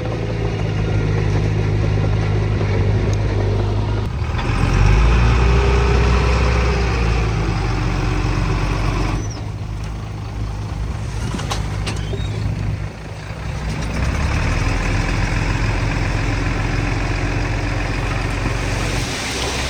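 Heavy diesel engines of earthmoving machinery running under work, with a steady low engine note that shifts in pitch and loudness several times as the load changes.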